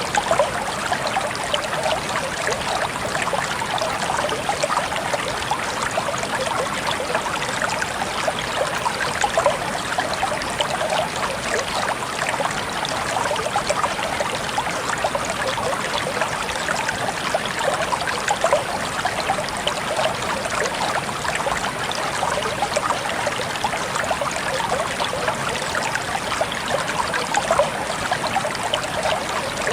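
Water trickling steadily, a dense patter of small droplets and splashes that never lets up.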